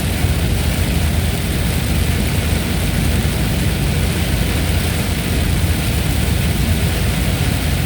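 Steady heavy rain hissing without a break, over a continuous low rumble.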